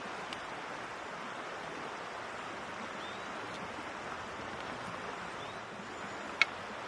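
Steady rushing of a river, with a few faint clicks and one sharp snap about six seconds in.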